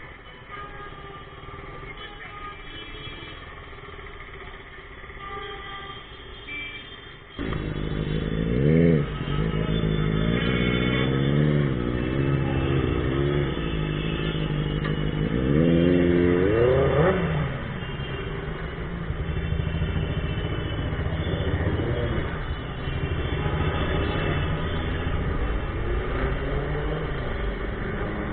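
Quiet street traffic, then about seven seconds in a motorcycle engine comes in abruptly louder. It revs up and drops in pitch between gears twice, then runs on at a steadier speed.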